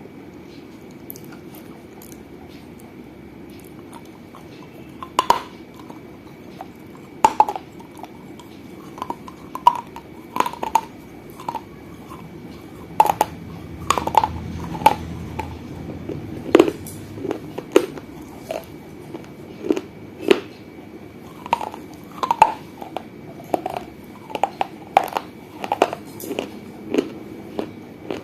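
Pieces of a small baked-clay piggy bank (gullak) being bitten and chewed close to the microphone: sharp, irregular crunches, sparse for about the first five seconds and then coming roughly every second.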